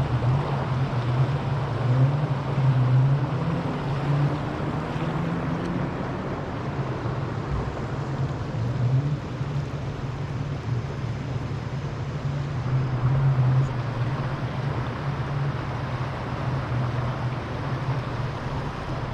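A vehicle's engine running steadily with a low hum, under a constant rush of wind and road noise.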